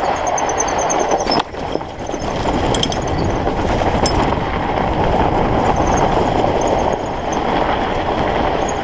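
Fat bike riding over frozen, uneven ground: a steady rolling rumble and rattle from the wide studded 45NRTH Dillinger 5 tyres and the bike, with a few faint high squeaks.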